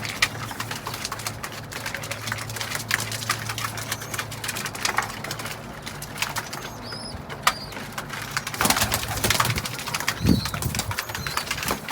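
Pigeons cooing and flapping their wings, with frequent short scratchy clicks and rustles.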